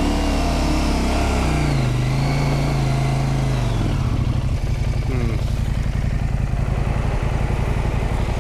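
Husqvarna Norden 901 motorcycle's parallel-twin engine revving up and held high for about four seconds on slick clay, then dropping back to a steady low running.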